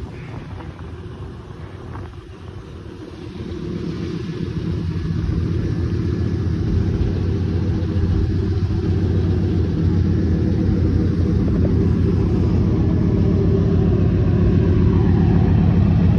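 1999 Camaro SS's 5.7-litre LS1 V8 idling through long-tube headers and a CME exhaust: a deep, steady pulsing exhaust note. It grows louder over the first several seconds, then holds steady.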